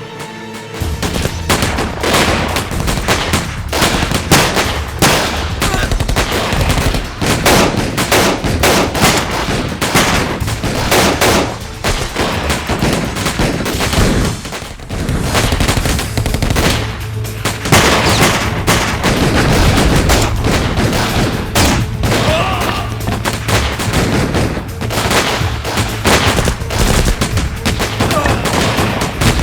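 A gunfight: rapid, overlapping gunshots and bursts of automatic fire going on without a break, many guns firing at once.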